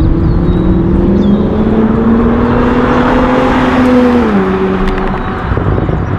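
A 2020 Toyota GR Supra's turbocharged inline-six running through an APEXi N1-X non-resonated stainless catback exhaust with titanium tips. The exhaust note climbs slowly and steadily in pitch for about four seconds, then drops back.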